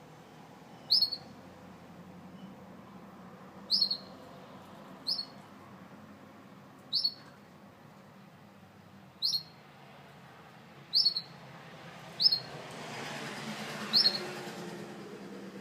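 Gloster canary giving short, sharp single chirps, about eight of them, one every one to two seconds, rather than a continuous song. A low steady hum runs underneath, and a broad rushing noise swells and fades near the end.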